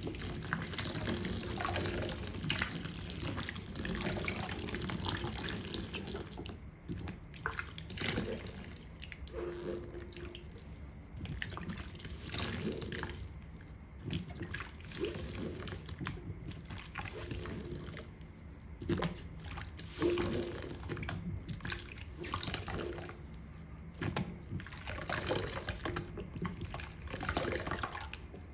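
Makeup sponges being washed in a sink under water: a steady flow of running water for about the first six seconds, then irregular bursts of splashing and dripping as the wet sponges are squeezed and rinsed.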